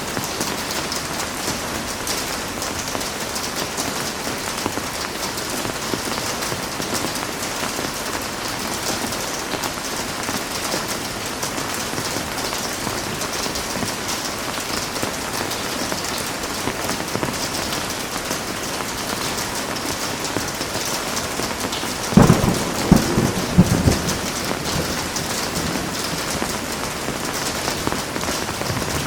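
Heavy rain falling steadily. About two-thirds of the way through, a sharp clap of thunder cracks and rumbles for about two seconds.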